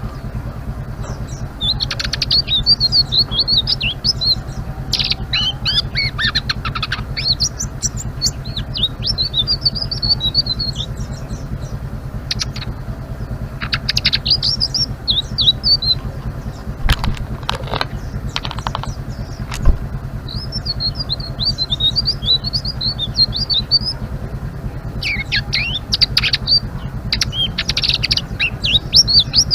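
A selendang biru songbird singing vigorously in rapid, high twittering chatters, phrase after phrase with short pauses between bouts. A steady low hum runs underneath, with a few sharp clicks about halfway through.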